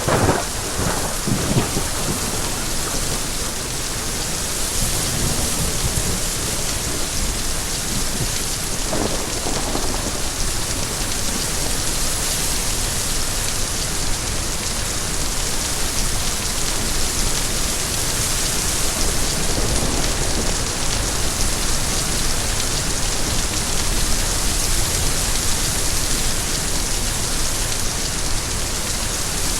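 Steady heavy rain hissing evenly, with low rumbles of thunder right at the start and again about nine seconds in.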